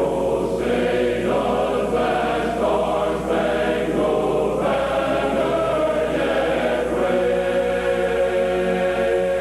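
A choir singing a national anthem in slow, held chords that change about every second.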